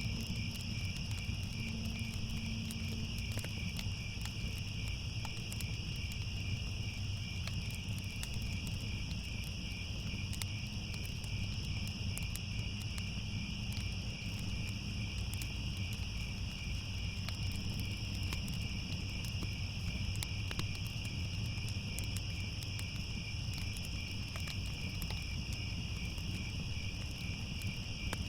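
Crickets chirring steadily in a dense night chorus, over a low rumble with scattered faint crackles.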